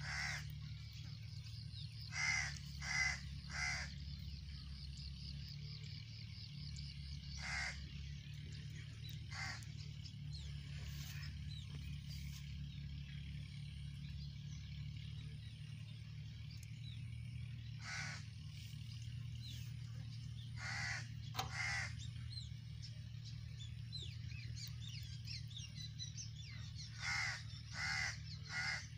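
Bird calls: short harsh caws, three in quick succession about two seconds in, single calls scattered through, and another run of three near the end. A steady low hum runs underneath.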